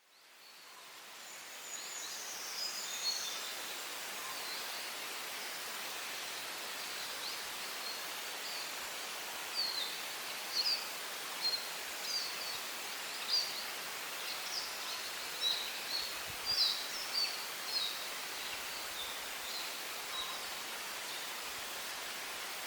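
Wind hissing steadily through pine trees, with small songbirds singing short, high chirps and trills through most of it, thickest in the middle. The hiss fades in over the first second or two.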